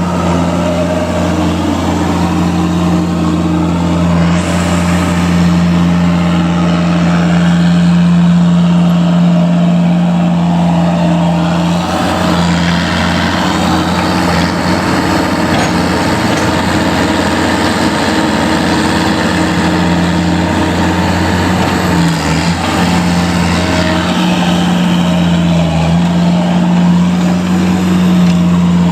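A vehicle engine running steadily at a constant speed, with brief slight dips in its note about twelve and twenty-two seconds in.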